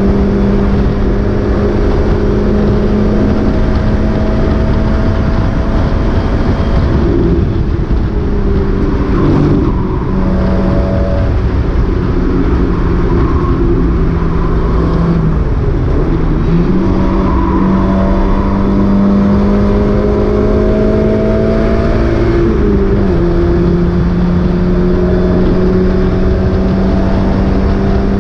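Mazda MX-5 race car's four-cylinder engine running hard, its note mostly steady with slow glides and a few sudden dips and jumps in pitch. The car was suffering a misfire in this race.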